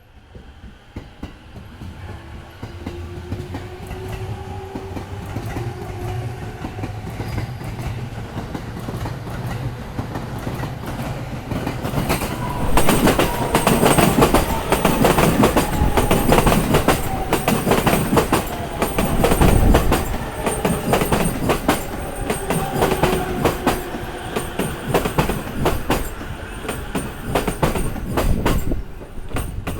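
Sobu Line electric train running over rail joints, its wheels clattering over the joints in a dense rapid rhythm. The sound builds over the first dozen seconds and stays loud until near the end, with a faint gliding whine underneath.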